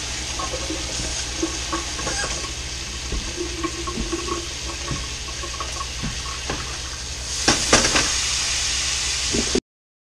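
Flour-dredged hamburger patties sizzling steadily in bacon grease in a skillet, with a few knocks near the end.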